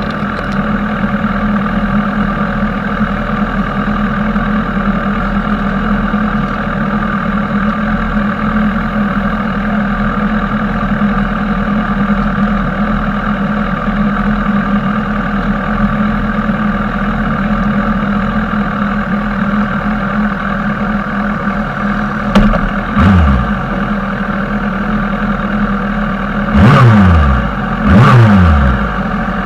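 Sportbike engine running steadily, then other motorcycles going past fast with their engine pitch dropping as they pass: once after about 22 seconds and twice, loudest, near the end.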